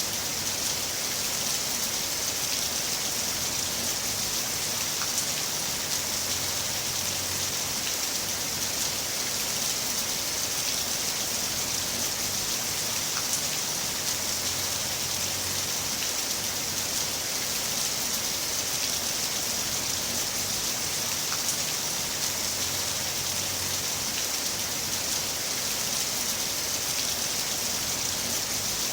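Heavy rain falling steadily, a dense even hiss with occasional individual drops ticking through it.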